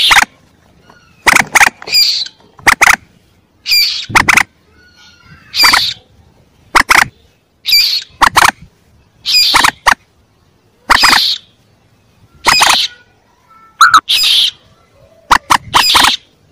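Lure recording of young common moorhen calls: short, sharp, loud calls repeating about every second and a half, several given as quick double notes.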